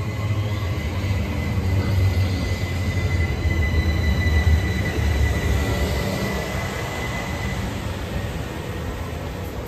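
Southeastern Electrostar electric multiple unit running past on the rails: a heavy rumble of wheels and carriages, loudest about halfway through, with a steady high whine that fades out in the last couple of seconds.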